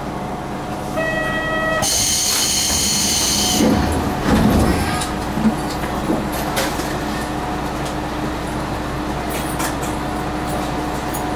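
Diesel railcar running along the line, heard from the front of the train: a steady engine and running hum with wheel and rail noise. A brief steady tone sounds about a second in, then a burst of hissing lasting under two seconds, and a few heavier knocks about four to five seconds in.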